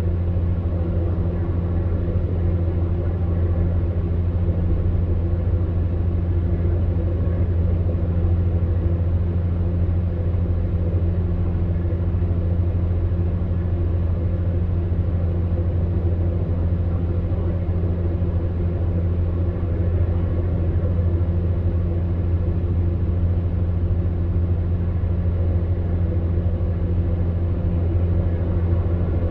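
Electric fan heater running steadily, a low motor hum under an even rush of air.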